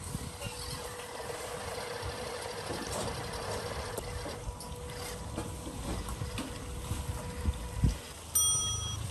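RC truck driving over rough ground: a steady thin motor whine over crunching noise and scattered knocks. Near the end comes a short pitched beep.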